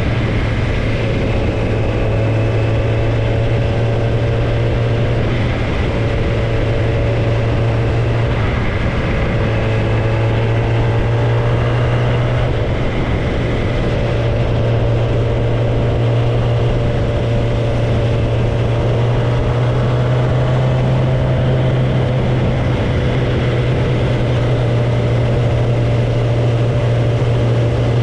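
Kawasaki ZX-10R inline-four sport bike running with no tailpipe, cruising at a nearly steady engine speed, its loud exhaust note holding one pitch with only small drifts up and down.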